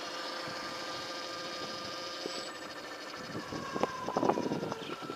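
Throne SRPNT electric motorcycle riding along, its motor giving a steady whine of several tones, one of the higher tones dropping out about two seconds in. Wind buffets the microphone, louder about four seconds in.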